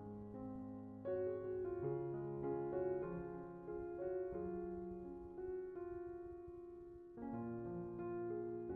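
Gentle piano background music: a slow melody over held bass notes, with a new phrase entering about a second in and again near the end.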